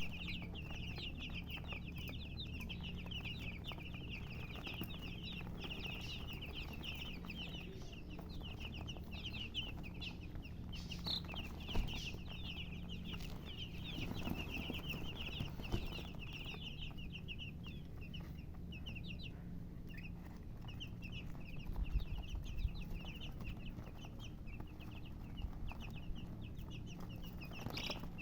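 A brood of baby chicks peeping continuously, a dense run of short, high chirps overlapping one another without a break, over a steady low hum.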